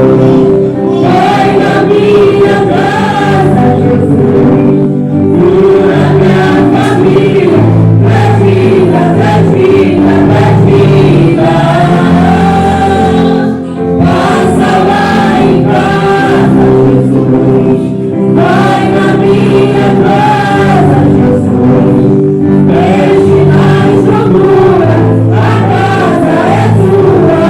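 Gospel worship music: a group of singers in chorus over sustained instrumental accompaniment with a bass line.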